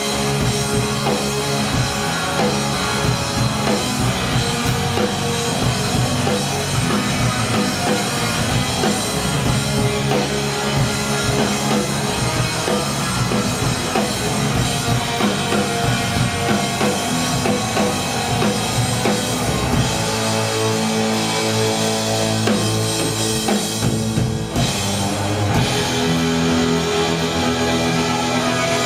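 Live rock band playing an instrumental passage with no singing. About twenty seconds in the bass thins out for a few seconds, then the full band comes back in.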